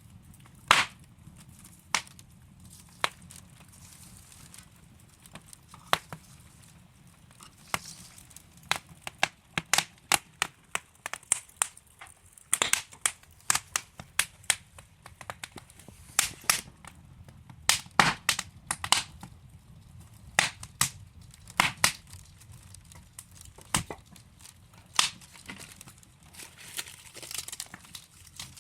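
Wood fire burning in a fireplace: logs crackling and popping in irregular sharp snaps over a low steady rumble of the flames, the pops coming thicker in the middle stretch.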